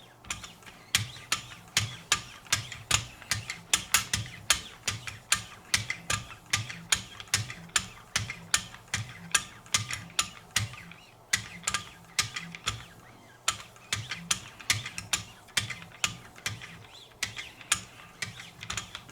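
Wicked Edge guided sharpener's paddles with 3-micron lapping film stroked alternately along a knife edge, making a steady run of light clicks and short scrapes about two or three a second, in the fine polishing stage of sharpening.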